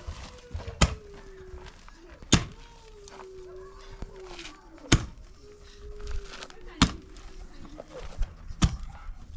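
Five sharp blows struck about two seconds apart, with a voice holding long, wavering notes between them.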